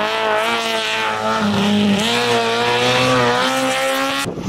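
Rally car engine pulling hard under acceleration as the car passes, its pitch climbing. About one and a half seconds in the pitch drops for an upshift, then it climbs again until the sound cuts off abruptly near the end.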